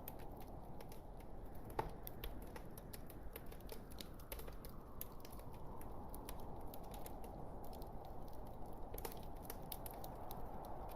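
Wood fire burning in a fireplace: a steady low rush of flame with irregular sharp crackles and pops from the logs, one louder pop about two seconds in.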